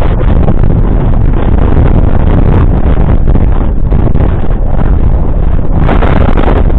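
Fendt 942 Vario's 9-litre six-cylinder diesel running steadily under load while pulling a Lemken Karat 12 cultivator, with wind rumbling on the microphone. The sound grows brighter and harsher briefly about six seconds in.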